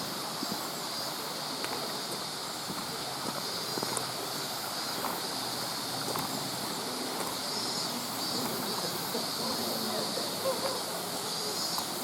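Mountain stream rushing steadily beside the trail, with faint scattered clicks from the old camcorder's loose monitor rattling.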